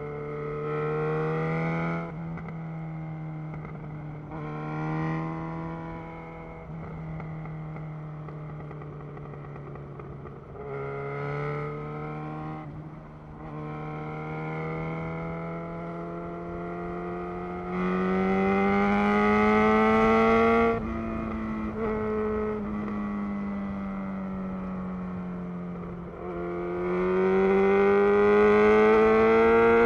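2011 Yamaha XJ6's inline-four engine through a Black Widow full exhaust system, heard while riding: the engine note climbs and falls with the throttle, with several pulls under acceleration and throttle-off stretches between. The pulls are loudest about two-thirds of the way in, where it drops off sharply, and again near the end.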